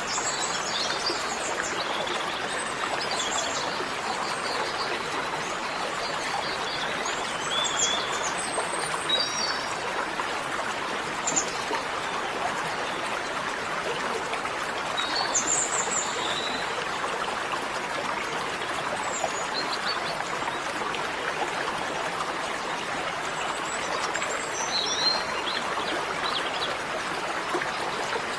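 Steady rush of running stream water, with small birds chirping in short bursts now and then over it.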